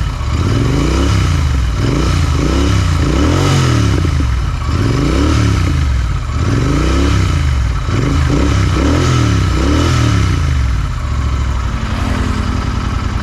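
Royal Enfield Interceptor 650's parallel-twin engine through a Power Age short aftermarket exhaust, revved in repeated quick blips, each rising and falling back, then settling to idle near the end.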